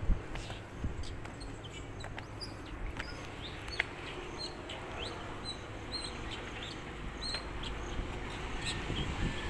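Small birds chirping in short, scattered calls over a steady low outdoor rumble, with a couple of sharp knocks near the start and about four seconds in.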